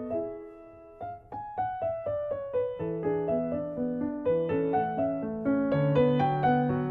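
Solo piano music: slow single notes at first, then a flowing run of notes over held bass notes.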